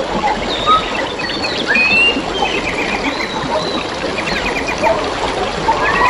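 Several wild birds chirping, with rapid trills and short whistled calls, over a steady babble of flowing water.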